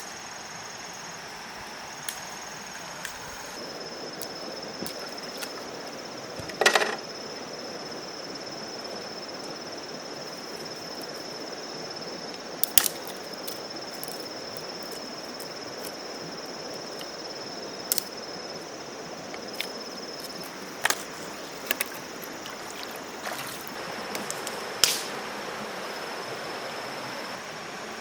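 A steady high-pitched insect trill, breaking off now and then, over a background hiss, with about seven sharp knocks or snaps spaced several seconds apart.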